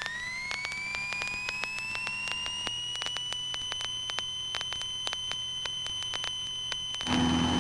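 High electrical whine in the Cessna 150's intercom audio that rises in pitch over about three seconds and then holds steady as the engine is brought up to full power for a touch-and-go takeoff, with rapid ignition ticking throughout. About seven seconds in a louder rushing noise with a low hum comes in.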